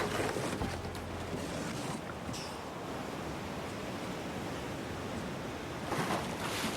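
Sea surf and breaking waves with wind buffeting the microphone; a louder rush of water comes about six seconds in.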